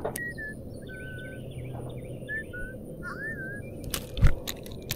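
Birds calling in a series of short whistled notes and chirps over a low, steady outdoor rumble. About four seconds in come a few sharp clicks and a dull knock as the spinning rod is cast.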